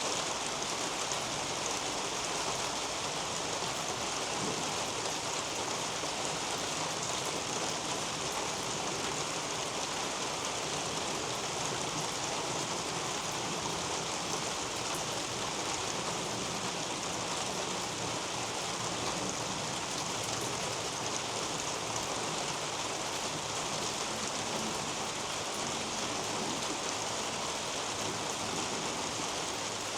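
Steady rain falling on garden foliage: an even hiss of many small drops at a constant level.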